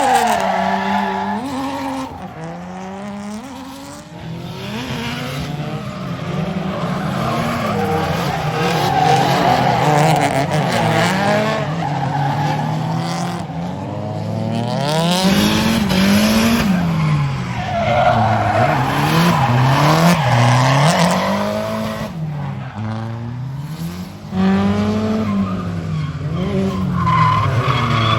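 Drift car engines revving hard, their pitch rising and falling over and over with throttle blips, under the hiss and squeal of tyres sliding. It gets suddenly louder about three quarters of the way through.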